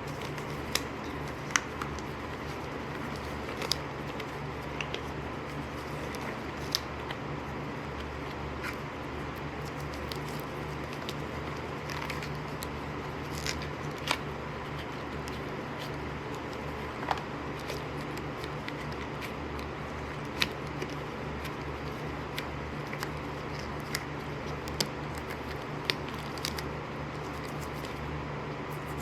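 Scattered small clicks and crackles of hands handling material, about fifteen sharp ticks spread irregularly, over a steady low hum.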